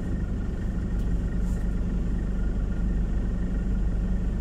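Car engine running steadily, a low even rumble heard from inside the cabin.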